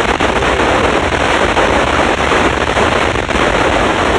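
Police scanner hissing with loud, crackling radio static between transmissions.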